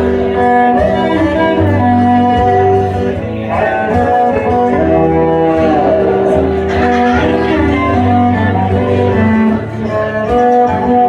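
Cello and guitar playing an instrumental passage: held bowed cello notes over plucked guitar.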